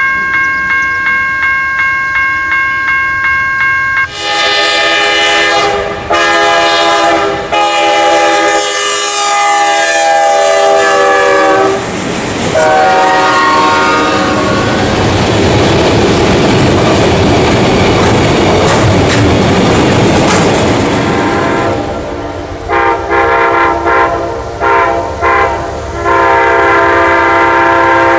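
Railroad crossing bell ringing in rapid strokes, then a freight train's horn sounding several blasts, the last held long, as it reaches the crossing. Its freight cars then rumble and clatter through. Near the end another train's horn sounds a few short blasts and then a long one.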